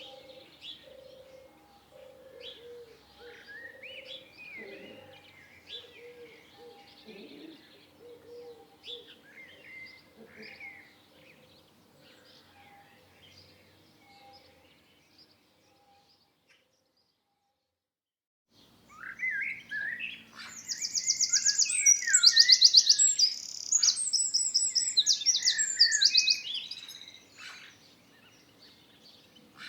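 Songbirds chirping and warbling quietly, over a low, evenly repeated pulsing sound. The sound drops out for about two seconds. It then comes back as a much louder chorus of birdsong with fast, high trills.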